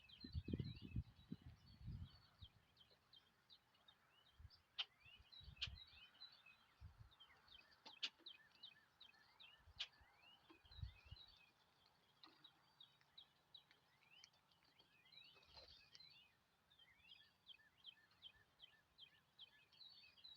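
Small birds chirping faintly, a steady stream of short, quick chirps, many sliding down in pitch. There are a few low bumps in the first couple of seconds.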